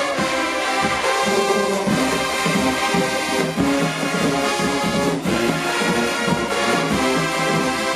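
HBCU show-style marching band playing loudly, brass-led, with trombones and trumpets over a moving low brass bass line and drum hits.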